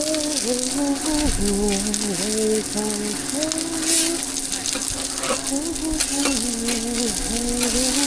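Cakes frying and sizzling in oil on a griddle, with a tune of held, gliding notes over it and a steady hum.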